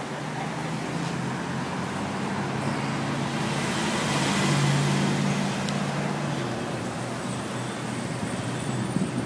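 Motor vehicle noise: a steady low engine hum, with a louder swell in the middle that rises and fades over a few seconds.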